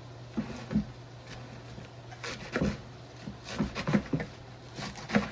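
Chopped lettuce being pushed off a cutting board into a strainer: a series of irregular soft knocks and rustles, over a steady low hum.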